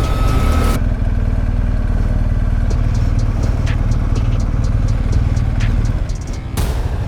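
Motorcycle engine running steadily at a low pitch while riding. A rush of wind noise cuts off sharply just under a second in and comes back shortly before the end, with a few light ticks in between.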